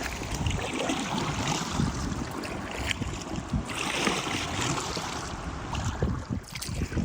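Wind gusting across the microphone over choppy, whitecapped water, with small waves slapping against the canoe.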